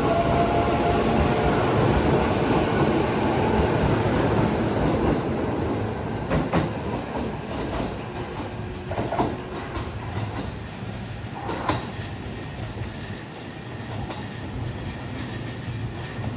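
Four-car JR East E531 series electric train pulling out, its running noise loud at first and then fading as it moves away, with the wheels knocking over rail joints a few times.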